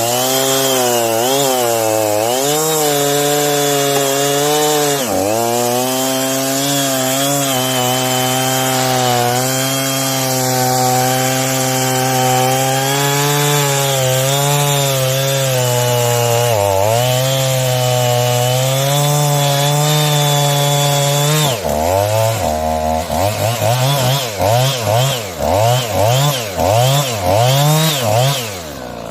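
Efco MT3710 two-stroke chainsaw running at full throttle while cutting wood, its engine speed sagging briefly under load twice. In the last few seconds it is revved up and down in quick repeated blips, then the throttle drops off.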